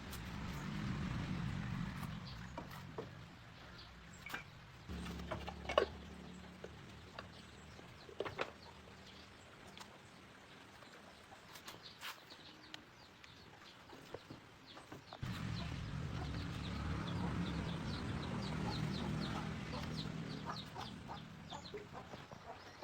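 Chickens clucking, with scattered light clicks and knocks, and a low steady hum for the first few seconds and again through the second half.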